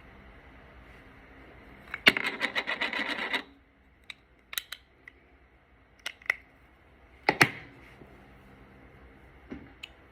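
Quick rubbing strokes for about a second and a half, then several separate clicks and taps, as makeup brushes and product containers are worked and handled.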